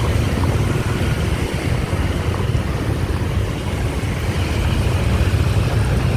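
Riding on a motorbike: wind buffeting the microphone over the motorbike's running engine, a steady low rumble.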